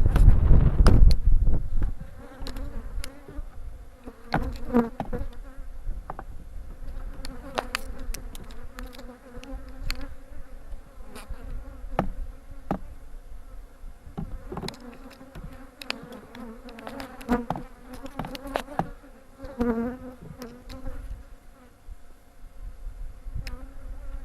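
Honeybees buzzing around an open hive, a steady hum, with scattered clicks and knocks of hive boxes and frames being handled. A loud low rumble fills the first couple of seconds.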